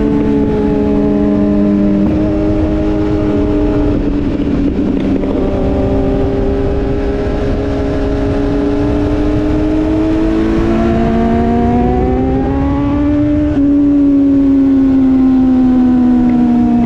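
Motorcycle engine running under way over a steady rush of wind noise. Its pitch sags slowly, climbs through the second half, changes abruptly, then eases down again.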